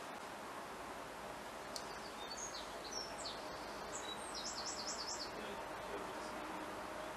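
Steady background hiss. About two seconds in, a short series of high bird chirps begins, ending in a quick run of repeated notes.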